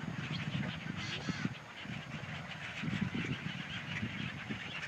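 A large flock of birds calling all together: a dense din of many overlapping short calls.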